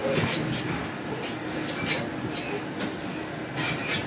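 Inside an InterCity 125 (HST) passenger coach rolling slowly over the station throat: a steady rumble of wheels on rail, broken by a string of short clicks and brief squeaks as the wheels cross points and rail joints.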